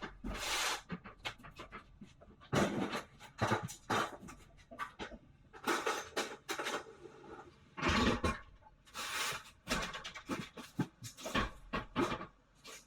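A dog barking over and over in short, irregular bursts.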